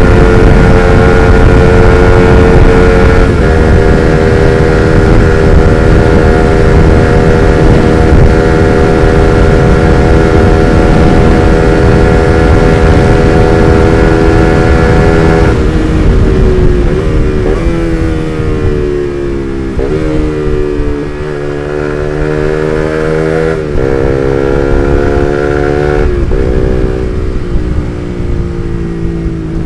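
Suzuki GSX-R150's single-cylinder four-stroke engine through an R9 Misano aftermarket exhaust, ridden at steady high revs for about fifteen seconds. The revs then fall away in steps with short blips as the bike slows, and climb again through a couple of quick gear changes near the end.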